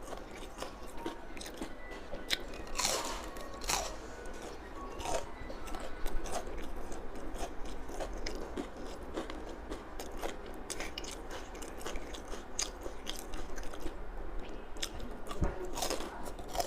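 Close-up eating sounds: crisp crunching bites into a fried crispy chicken cutlet, with chewing between bites.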